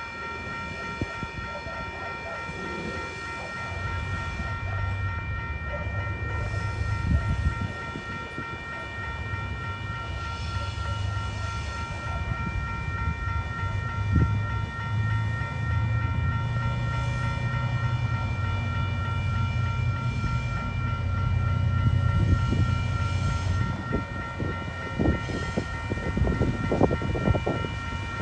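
Freight train's diesel locomotives, three TasRail TR-class units led by TR13, approaching a level crossing, their low engine rumble building and growing louder. Over it the crossing's warning bells ring steadily, with a few sharp knocks near the end as the train nears.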